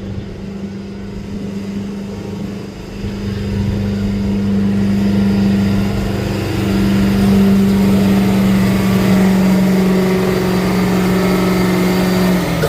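Dually pickup truck's engine running hard at steady high revs while pulling the weight sled down the track. It gets louder about three seconds in and cuts back just before the end as the pull finishes.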